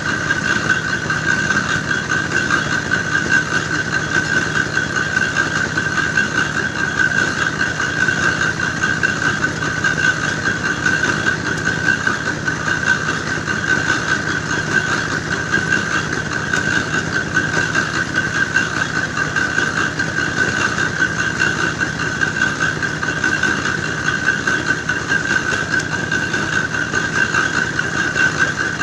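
Engine-driven clay grinding mill running steadily, grinding soil into the mix for red bricks.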